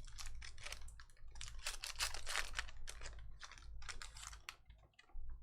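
Football trading cards being flipped through and shuffled by hand: a quick run of crisp clicks and rustles of card stock, thinning out near the end.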